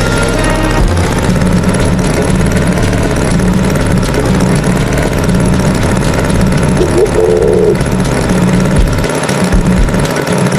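Tractor engine running steadily, with a brief higher-pitched sound about seven seconds in.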